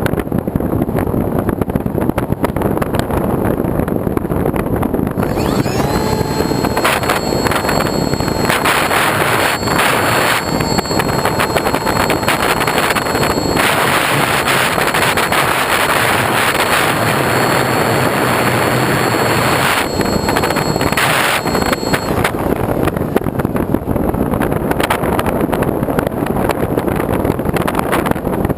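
Steady rushing wind noise on the microphone of a moving vehicle. A steady whine glides up about six seconds in, holds, and stops about twenty-two seconds in.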